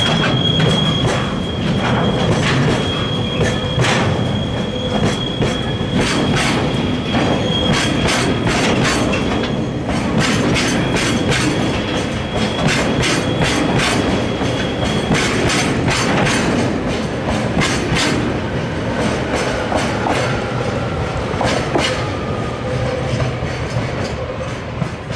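Freight wagons (container flatcars with tank containers, then tank wagons) rolling past close by, with a steady rumble and repeated sharp clacks of wheels over rail joints. A high, steady wheel squeal sounds through the first half and stops about fifteen seconds in. The sound falls away at the very end as the last wagon passes.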